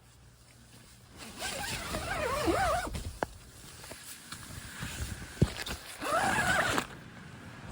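A zipper being pulled twice, a rasp with a wavering pitch: a longer pull about a second in and a shorter one near the end, with a few small clicks in between.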